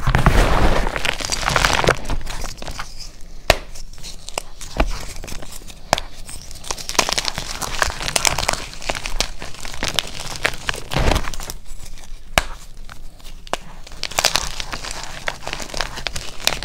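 A big dyed SPRI gym chalk block being crushed by hand: dry, crunchy crumbling with irregular crackles and sharp snaps as it breaks apart, coming in uneven bursts with short lulls between.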